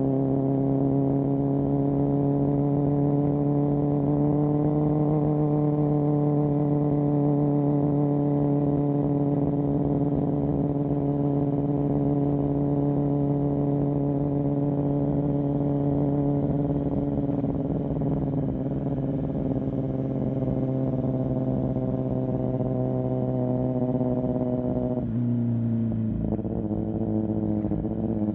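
Kawasaki ZX10R's inline-four engine through an M4 exhaust, held at steady cruising revs. The pitch climbs a little about four seconds in and drops abruptly near the end as the revs fall.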